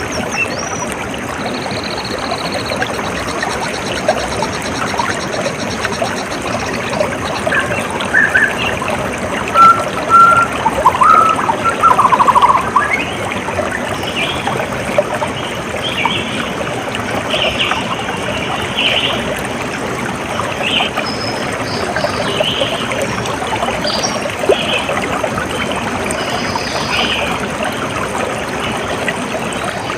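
Water trickling and flowing steadily, with birds calling over it: a few louder mid-pitched calls around ten to twelve seconds in, then a run of short, higher chirps through the second half.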